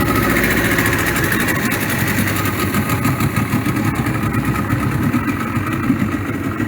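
An engine running steadily, a loud continuous low rumble.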